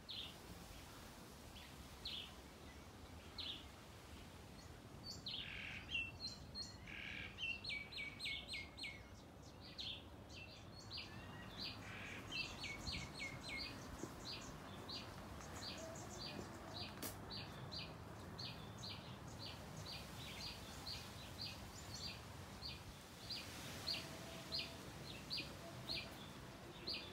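Birds chirping, faint: a quick run of short high notes, then one bird repeating a short high chirp about twice a second.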